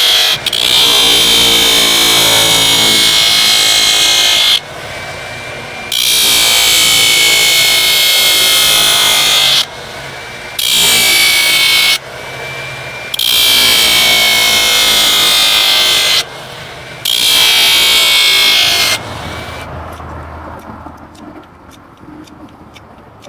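A power tool worked on a horse's hoof during hoof cleaning, run in five bursts of a few seconds each with short pauses between, then winding down and fading near the end.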